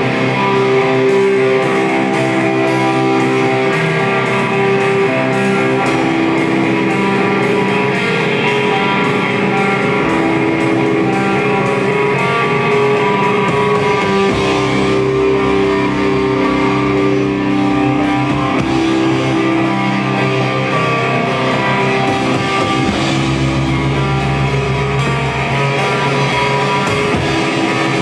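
Live rock band playing an instrumental passage: electric guitars holding long sustained notes and chords over bass, with no singing.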